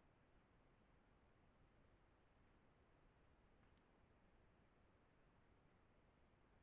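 Faint, steady high-pitched chirring of crickets, with no break or change.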